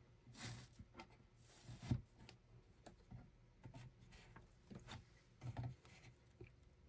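Irregular soft rustling and light knocks of something being handled by hand, with one sharper knock about two seconds in.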